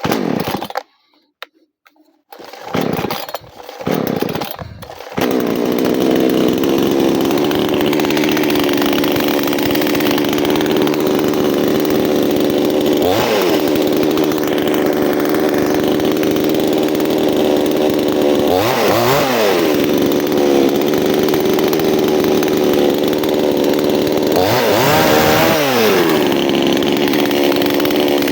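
Two-stroke chainsaw engine coming to life: a few short bursts with gaps between them, then it catches about five seconds in and runs steadily at speed. Its pitch sags and recovers briefly three times.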